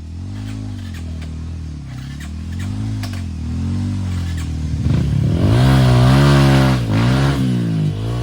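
Enduro dirt bike engine revved up and down in repeated throttle blips, turning into a louder, harder run of revving for the last three seconds.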